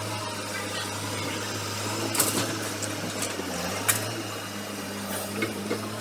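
Excavator's diesel engine running steadily, its pitch dipping briefly and coming back up, with two sharp metallic clanks about two and four seconds in.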